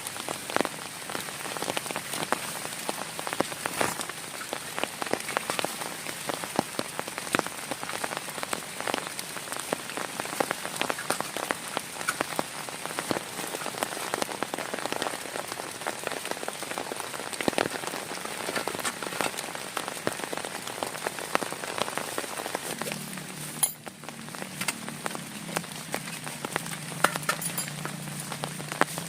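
Heavy rain falling, with many separate drops striking close by. About 23 seconds in, a low steady hum joins it.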